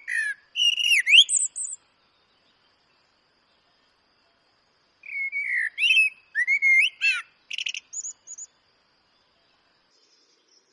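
Eurasian blackbird singing two phrases a few seconds apart, each of low fluting whistles that slide up and down and end in high squeaky twitters.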